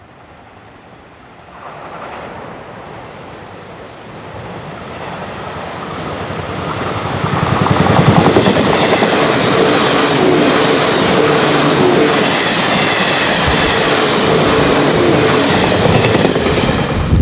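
JR 583-series electric sleeper train passing close by at speed, wheels clattering over the rail joints. Its noise builds as it approaches and is loudest as the cars go by, from about eight seconds in.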